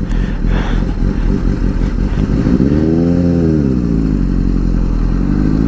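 2007 Kawasaki ZX-6R's inline-four engine pulling away from a stop: the revs rise and drop back once, then climb again near the end, over a steady low road rumble.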